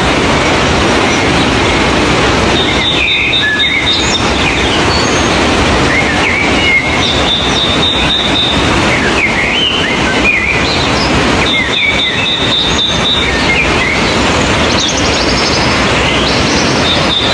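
Birds chirping and singing over a loud, steady rushing noise, with a high, steady note that comes back about every four seconds.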